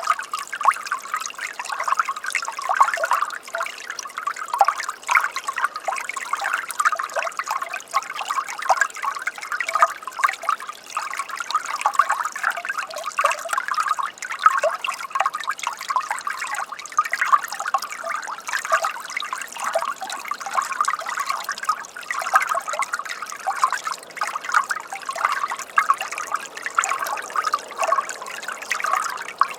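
A small flow of water trickling steadily, a continuous busy babble with no pauses.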